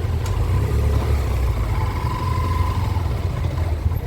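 Small-displacement motorcycle engine running with a steady low rumble, and a faint thin tone about two seconds in.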